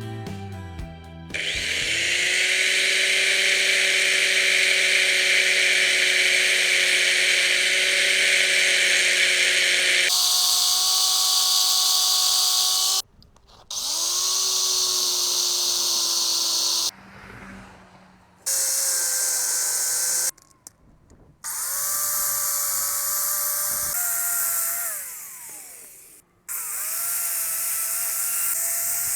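Electric power tool motor run in about six bursts, each spinning up to a steady whine and stopping, with short pauses between. One run winds down with a falling pitch.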